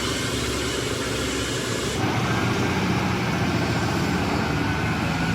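Heavy truck engine running steadily. The sound changes abruptly about two seconds in.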